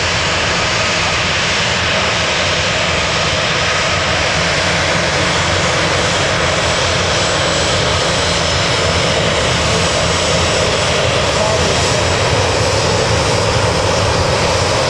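Jet airliner engines running loud and steady, growing a little louder in the second half.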